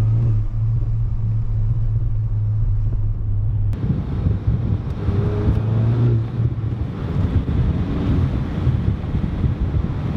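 Volkswagen Golf GTI MK8's turbocharged 2.0-litre four-cylinder running through an X-Force aftermarket exhaust in sport mode, heard from a moving car. A steady low engine note comes first; from about four seconds in it turns rougher and uneven, with irregular pops from the exhaust.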